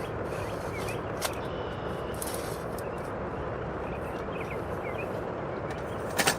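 Rain falling steadily on the tent's fabric, with faint bird chirps. There is a sharp tap about a second in and a louder double click near the end.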